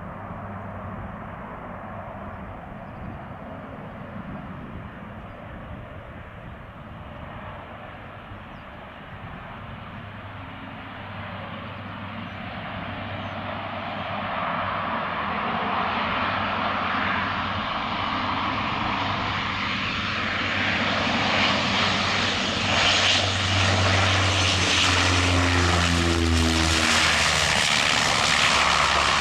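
De Havilland Canada Dash 8-200 twin-turboprop airliner on landing approach, its engines and propellers running with a steady low hum and growing steadily louder as it draws near, loudest near the end with a brief downward shift in pitch.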